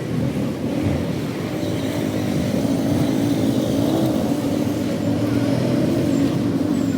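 A truck engine running steadily, its pitch wavering a little, cutting off abruptly at the end.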